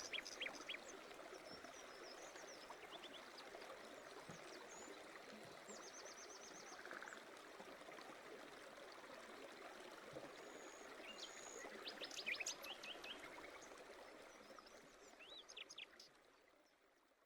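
Faint bird chirps, quick downward-sweeping calls and a short trill over a steady background hiss, fading out near the end.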